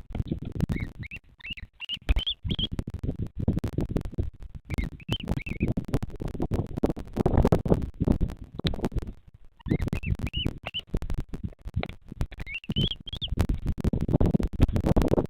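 Short runs of high, rising chirps from a bird at the nest, repeated several times, over constant low rumbling and scratchy rustling.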